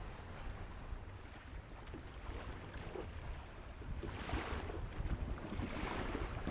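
Wind rumbling on the microphone, with small waves lapping and splashing against a kayak's hull, a little louder about four seconds in.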